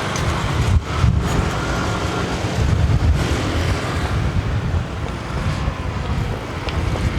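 Yokosuka Line E235-1000 series electric train running past close by: a loud, steady low rumble of wheels on the rails.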